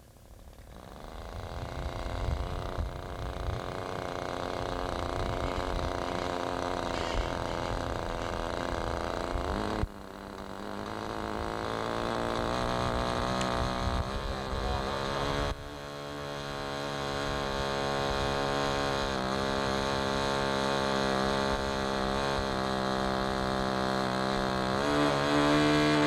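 Small engine of a radio-controlled model airplane buzzing in flight, its pitch wavering up and down with throttle and distance. It swells in over the first couple of seconds and dips sharply twice before building again.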